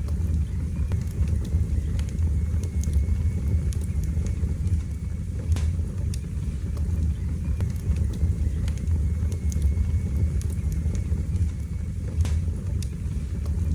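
Wood fire burning in a fireplace: a steady low rumble of the flames with scattered sharp crackles and pops, and a faint high whistle for a few seconds in the middle.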